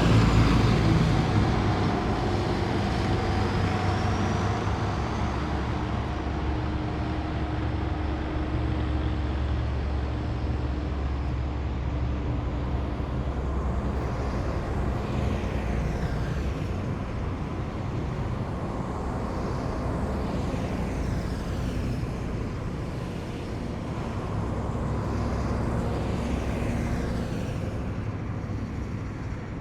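A column of heavy military vehicles driving past, their engines running with a steady low drone. The loudest vehicle fades away at the start, and a slight swell comes a few seconds before the end as more vehicles approach.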